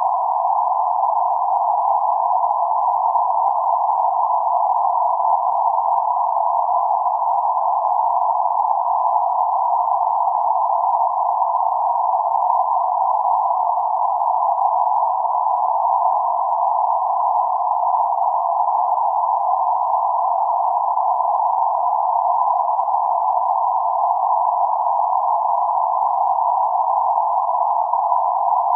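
Synthesized noise centred around 848 Hz: a steady, even hiss held to a narrow middle range of pitch, with no highs or lows, unchanging throughout.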